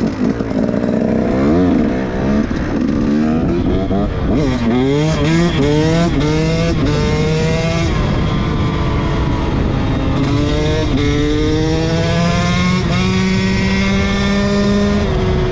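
Dirt bike engine accelerating and shifting up through the gears: the pitch climbs in each gear and drops back at each shift, then settles into a steadier cruise near the end.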